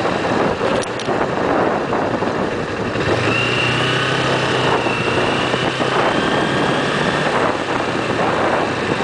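Wind buffeting the microphone over a running motorcycle engine. About three seconds in, a steady low hum and a thin high whine come in and hold for most of the rest.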